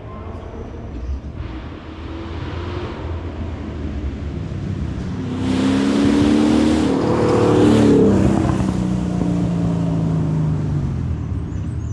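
A hillclimb race car accelerating past under hard throttle. The engine grows louder about five seconds in, is loudest around six to eight seconds, then drops in pitch and fades as it goes by.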